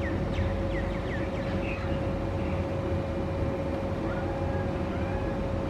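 A steady low mechanical hum with a constant droning tone runs throughout, and over it birds give short chirps and calls, a quick cluster in the first two seconds and a few arched calls from about four seconds in.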